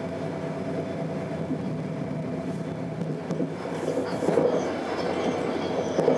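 Stadler GTW diesel multiple unit heard from inside the passenger cabin while running along the track: a steady drone of the diesel power unit mixed with wheel-on-rail noise. A few louder knocks or rattles come at the start, about four seconds in, and near the end.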